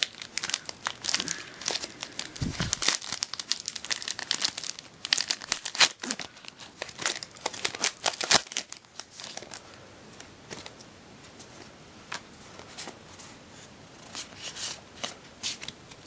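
Foil wrapper of a Pokémon TCG booster pack being crinkled and torn open, a dense crackling for the first nine seconds or so, then sparser, softer crackles.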